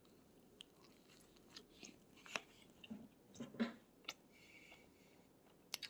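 Faint chewing of a bite of a McDonald's Big Mac, with a few soft, brief clicks of the mouth and food.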